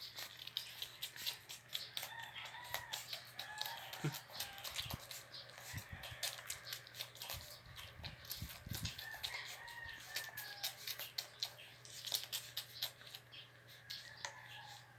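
Young puppies giving short, high whimpering calls, a few at a time, over a steady stream of rapid clicking and smacking noises.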